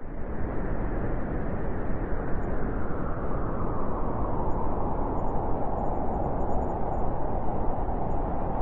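Blizzard wind blowing in a steady, deep rush that cuts in abruptly at the start and grows a little stronger after a few seconds.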